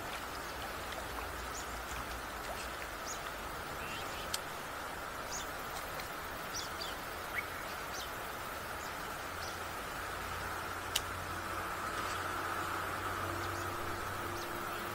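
Rural outdoor ambience: scattered short bird chirps over a steady drone, with three sharp clicks spread through it.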